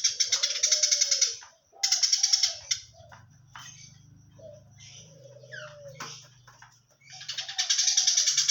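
Eurasian tree sparrow chattering hard in fast rattling bursts, with a sparser run of single chirps in the middle before the dense chatter resumes near the end.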